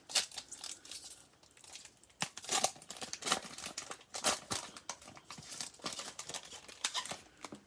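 A trading-card pack's wrapper being torn open and crinkled by hand: a run of irregular crackles and rips, with a few sharper tears scattered through.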